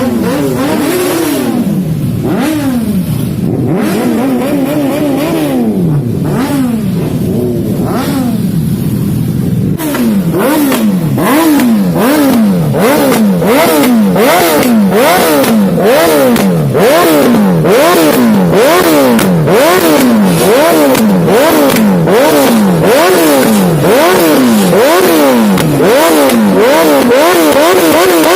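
Superbike engine revved hard by repeated throttle blips through its exhaust: a few uneven revs at first, then, about ten seconds in, louder, rapid rev after rev at just over one a second.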